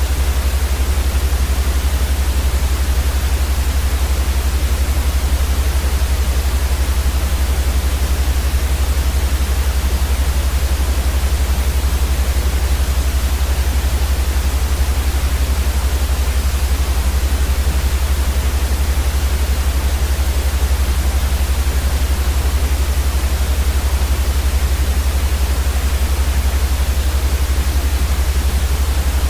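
Steady, unchanging white noise, an even hiss spread across all pitches, with a stronger deep rumble underneath. It plays as a constant sleep-sound track.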